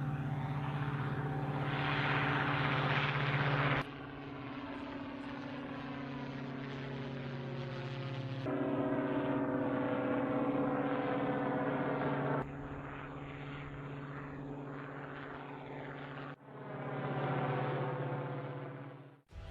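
MQ-9 Reaper's turboprop engine and pusher propeller running in flight: a steady pitched drone with a sweeping, phasing sound as the aircraft passes. It is heard in several short takes that cut from one to the next every few seconds.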